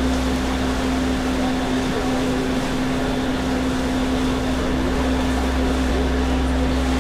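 Steady mechanical drone on board a passenger ferry under way: a constant hum with a deep low rumble under it, and faint chatter in the background.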